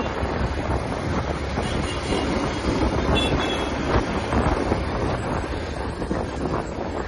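TVS Apache RTR 180 single-cylinder motorcycle running at speed, its engine and exhaust mixed with a steady rush of wind over the microphone.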